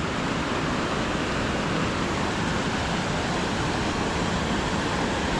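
Waterfall rushing: a steady, unbroken noise of heavy falling water.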